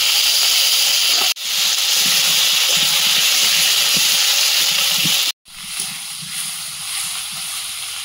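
Chunks of tree potato (yam) frying in hot oil in a wok: a loud, steady sizzling hiss. It breaks off abruptly twice, and after the second break a quieter frying sizzle goes on.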